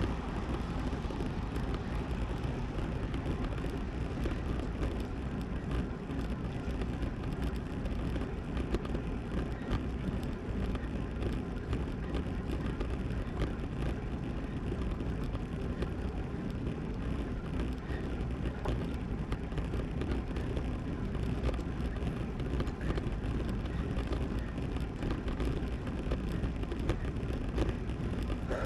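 Steady low rushing noise of a road bike in motion: wind on the microphone and tyres rolling on the road.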